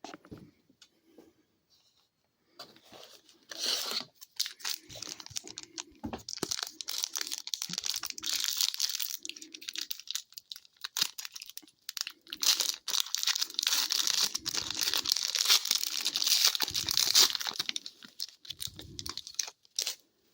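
A hockey card pack's wrapper being torn open and crinkled by hand: long stretches of crackling and tearing with sharp clicks and brief pauses, ending near the end.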